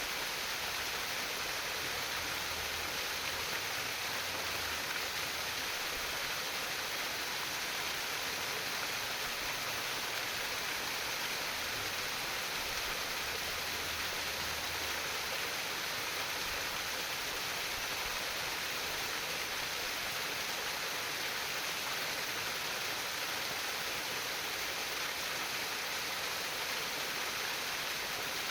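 Steady trickling, splashing water of a flowing stream, an even unbroken rush of water sound.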